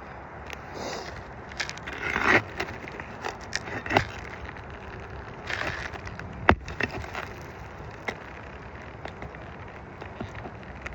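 Scraping and crackling of asphalt roof shingles being worked with hand tools, with scattered clicks and knocks and one sharp tap about six and a half seconds in.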